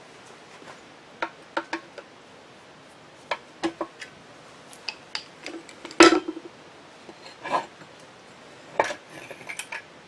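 Metal parts of a drill grinder's electric motor clinking and knocking as they are handled and set down during disassembly: a scattering of sharp clicks, with one louder knock about six seconds in.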